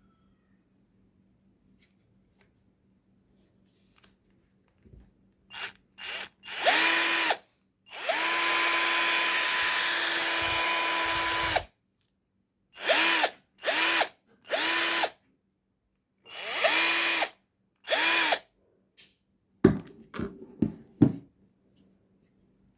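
TOTAL TDLI12415 cordless drill running free in trigger pulls. Each pull spins the motor up to a steady whine and lets it stop: a few short blips, one long run of about four seconds, then several short bursts. A few sharp clicks come near the end.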